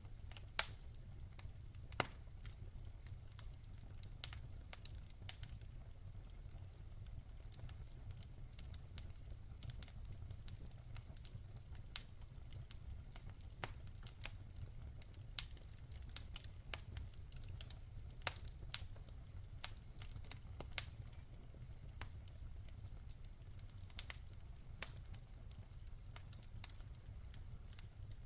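Campfire crackling: irregular sharp pops and snaps of burning wood over a steady low rumble of the fire.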